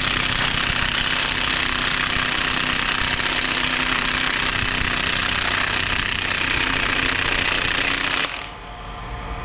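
Heavy impact wrench hammering steadily on a fastener of a brass canister for about eight seconds, then stopping; the fastener does not come undone because a coil spring inside holds it under heavy tension.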